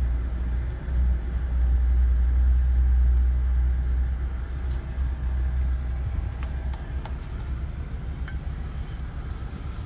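A low rumble that eases off after about four seconds, with a few faint clicks and taps.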